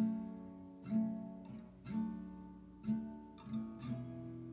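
Acoustic guitar strumming chords, roughly one strum a second, each chord ringing and fading before the next, with no singing.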